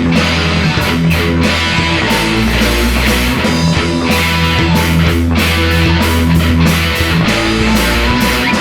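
A rock band playing an instrumental passage: distorted electric guitar over bass guitar and drums, with no singing.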